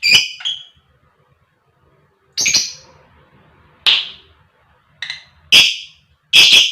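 Lovebird giving about six short, shrill calls in separate bursts, with pauses of up to a second and a half between them.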